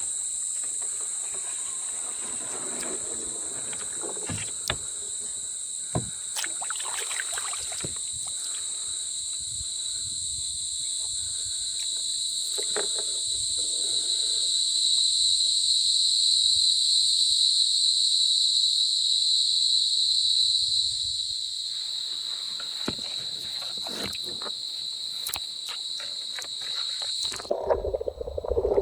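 A steady, high-pitched insect drone that swells in the middle and cuts off suddenly near the end, with a few light knocks scattered through it. A low rumbling noise takes over as the drone stops.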